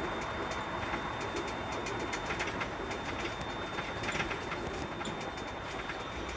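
Container truck's diesel engine running, with irregular rattling and clicking throughout.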